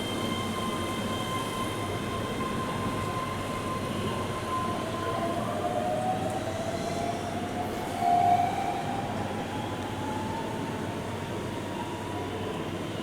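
Keihan electric train running through the station: a steady rumble with thin high tones, and a whine that begins rising about five seconds in and is briefly loudest about eight seconds in.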